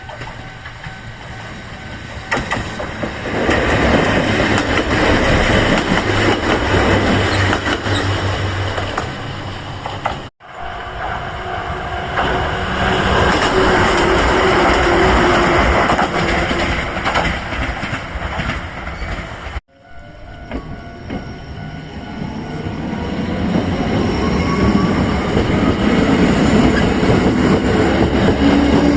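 Toyama Chiho Railway electric train passing over a level crossing, its wheels clattering on the rails. It comes in three stretches that cut off abruptly twice, and the last stretch has a rising whine.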